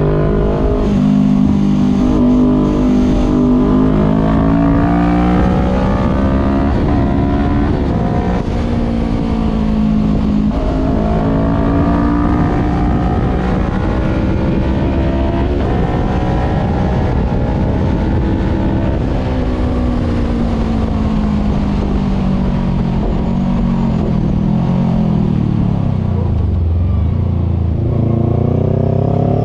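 Voge 500R's parallel-twin engine heard onboard through a full exhaust with the dB killer removed. It revs up and down through the gears, dropping to low revs near the end before pulling up again.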